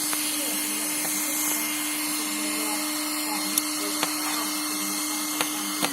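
An electric motor running steadily with a constant hum and hiss, a few light clicks over it. Right at the end it shuts off and winds down with a falling pitch.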